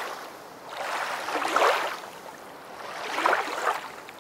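Waves washing in: a rushing of water that swells and falls back roughly every one and a half to two seconds.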